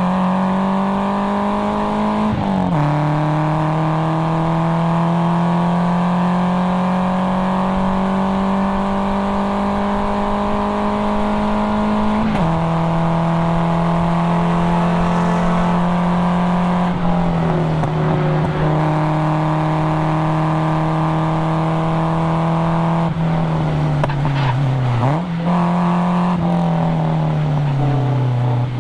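Nissan 240SX's 2.4-litre KA24DE four-cylinder engine pulling hard under load through an aftermarket cat-back exhaust. The pitch climbs slowly and drops sharply at upshifts about two and a half and twelve seconds in, then falls off and dips and picks up again in the later part as the car slows and is driven out again.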